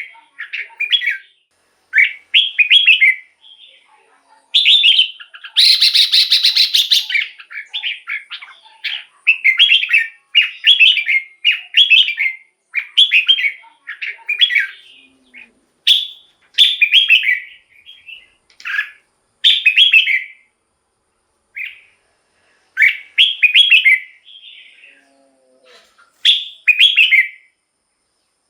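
Red-whiskered bulbul singing loud, short warbled phrases over and over, with brief pauses between them. About five seconds in comes one harsher, buzzier call lasting about a second and a half.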